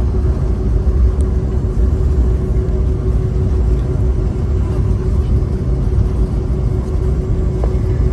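Steady low rumble of a Boeing 757-200 heard from inside the cabin as it rolls along the ground after landing, with a constant droning tone over it.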